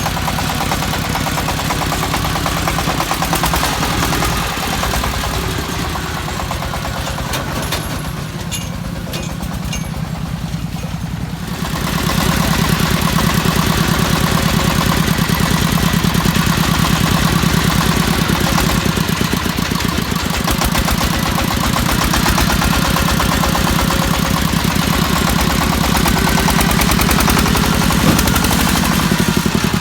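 Single-cylinder diesel engine of a công nông farm truck running with a fast, even chugging beat while the truck drives. It grows louder and heavier about twelve seconds in.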